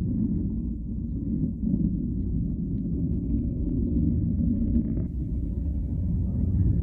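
A steady low rumble with nothing in the higher pitches.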